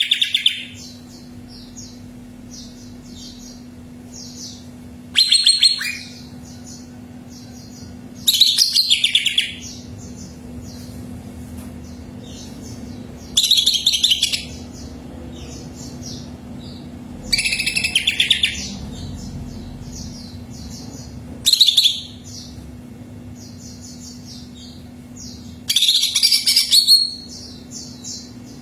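Cucak ijo (green leafbird) singing in short, loud, high-pitched phrases about a second long, repeated roughly every four seconds, with faint chirping between them. A steady low hum runs underneath.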